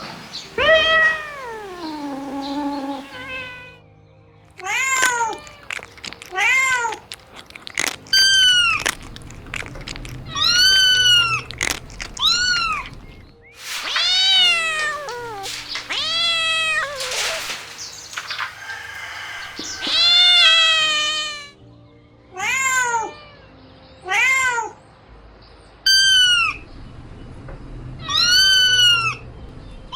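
Kittens meowing over and over, about fifteen separate high-pitched meows, each rising then falling in pitch, with short gaps between them. Soft background music runs underneath.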